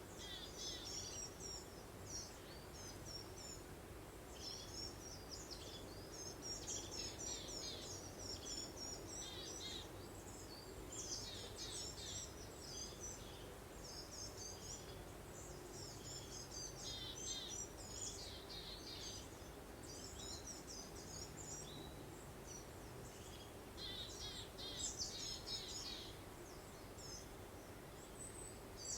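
Songbirds chirping and twittering in quick repeated phrases over a steady soft rush of breeze.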